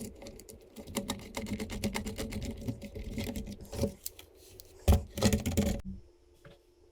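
Rapid clicking and rattling of hard plastic parts, with a few louder knocks near the end, stopping abruptly about six seconds in.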